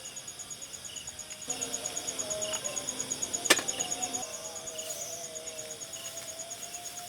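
Insects calling in a fast, even pulsing trill, with one sharp click about halfway through.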